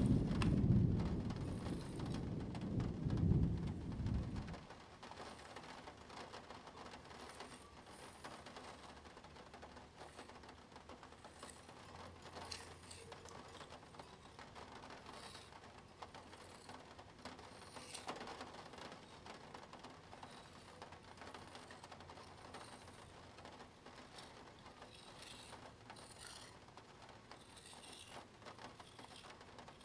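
Low rumbling handling noise for about the first four seconds, then faint scratching and light plastic ticking from a Spirograph set: a toothed plastic gear wheel and pen turning against the ring.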